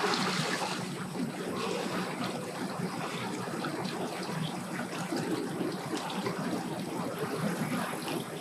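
Steady water noise with a low, even hum of boat engines underneath and faint voices in the background.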